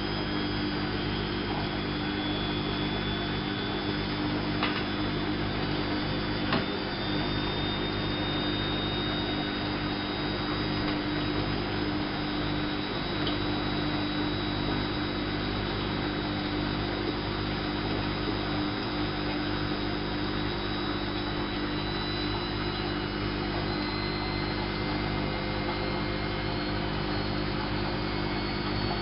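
Whirlpool AWO 5346 washing machine running with a steady motor hum and a faint high whine that slowly rises, and two light clicks about five and seven seconds in.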